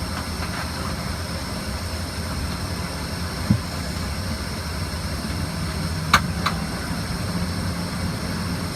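Steady cabin drone of an Embraer ERJ-145 regional jet on the ground before takeoff, a low hum with a faint high whine over it. A dull thump comes about three and a half seconds in, and two sharp clicks a little after six seconds.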